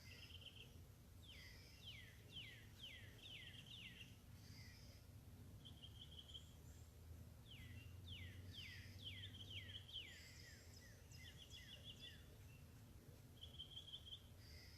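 Faint birdsong: a songbird sings a run of about six quick down-slurred whistles, then another run a few seconds later, with short trilled notes in between, over a low background rumble.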